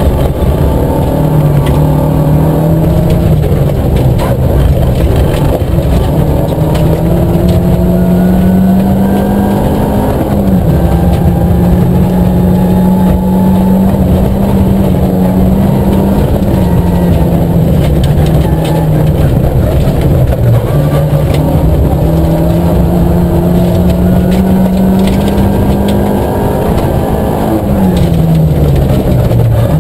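Nissan Micra K11 rally car's four-cylinder engine, heard from inside the cabin, worked hard at high revs over gravel road noise. The pitch climbs and holds high, dropping sharply at each upshift, about twice. Near the end it falls steadily as the car brakes and slows.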